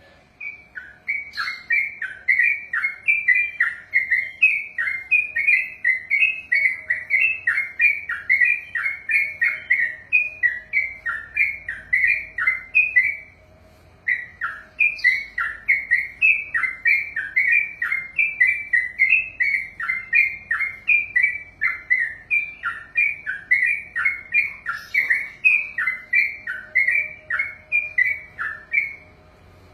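Sooty-headed bulbul (trucukan) singing a long rolling song of short, falling whistled notes, about three a second, in two long runs broken by a short pause midway.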